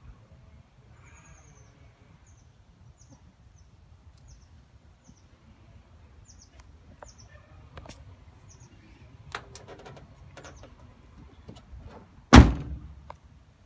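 A car door shuts with one loud thunk about twelve seconds in, after a few small clicks of handling. Before it, a bird chirps a dozen or so short, high falling notes.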